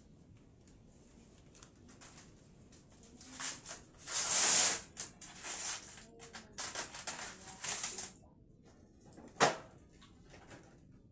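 Paper or plastic packaging rustling and crinkling as it is handled, in irregular bursts for several seconds, then a single short knock.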